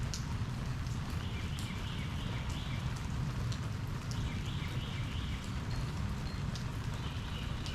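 Steady rain falling, with a low rush and scattered sharp drip ticks. Three times a run of repeated high chirps cuts through it: about a second in, near the middle, and at the very end.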